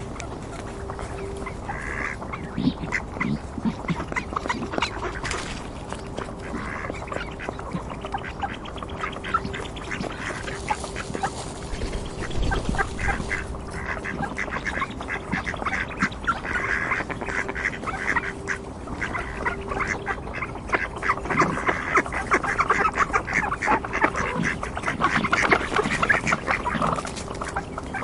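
A flock of ducks quacking, with many short calls overlapping and growing busier and louder in the last third.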